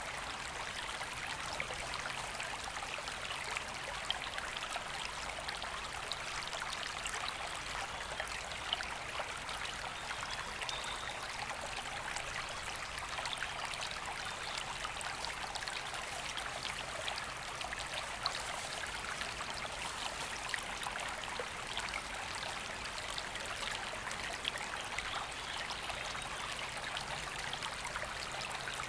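A woodland river flowing steadily over stones: an even rushing with many small splashes and trickles.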